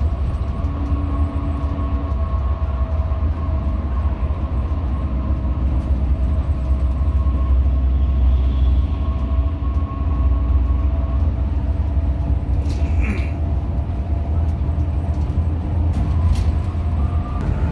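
Hino RM 280 bus's diesel engine and road noise: a steady low rumble with a faint constant whine over it, and a couple of brief clicks near the end.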